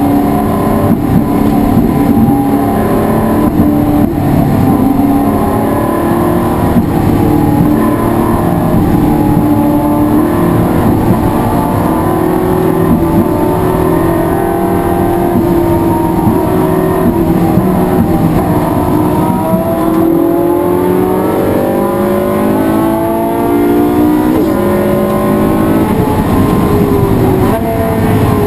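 Race car engine running hard under load, its pitch climbing through the revs and dropping back at each gear change, with a run of quick upshifts in the last third.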